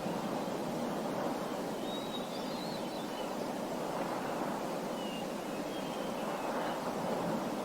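Nature ambience of small birds chirping faintly and sparsely over a steady rushing background noise.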